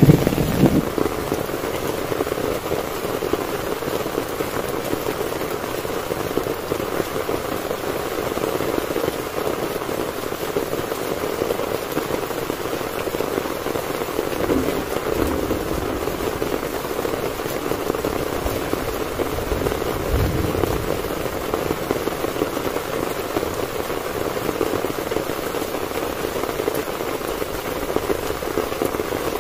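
Heavy rain falling steadily on a tent, a steady hiss and patter. The tail of a loud thunderclap dies away in the first second, and a faint low rumble of distant thunder comes about twenty seconds in.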